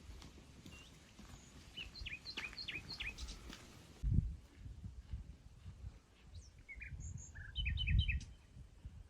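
Small birds chirping in quick runs of short, falling notes, once about two seconds in and again near the end. Low rumbles come in under them, loudest about four seconds in and just before the end.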